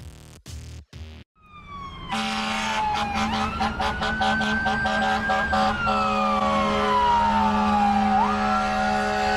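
Electronic music cuts out in the first second or so. An emergency vehicle siren then wails over traffic noise: its pitch rises, holds, slides slowly back down, and rises again near the end.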